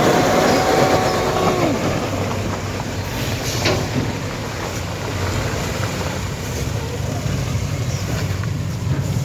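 Heavy truck descending a rough, steep road: a squeal of two steady tones fades out within the first two seconds, over the truck's continuous rumble and rattle. A sharp clank about three and a half seconds in.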